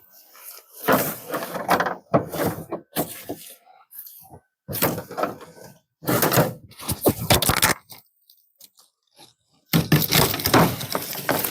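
Brush and branches crashing and snapping as they are broken and dragged: several irregular bursts with short quiet gaps, the longest and loudest near the end.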